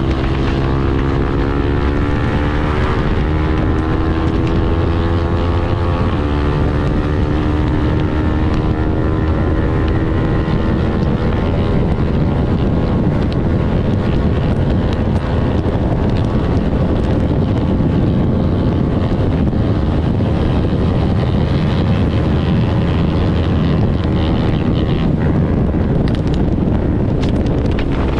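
KTM Duke 390 single-cylinder engine with an Arrow full-system exhaust pulling at high revs at highway speed. The engine note climbs slowly over the first several seconds, then is largely covered by heavy wind rush on the microphone before it comes through clearly again near the end.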